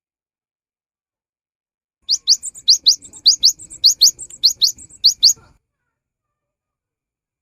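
Cinereous tit (gelatik batu) singing: a song of high, quickly rising notes in pairs, repeated six times at an even pace, starting about two seconds in and cutting off sharply after about three and a half seconds.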